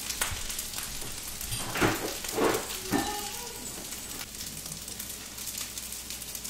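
Rice frying in a pan, a steady crackling sizzle, with a few brief louder sounds about two to three seconds in.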